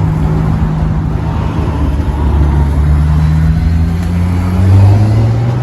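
Car driving, its engine note climbing gradually as it accelerates, over steady road noise.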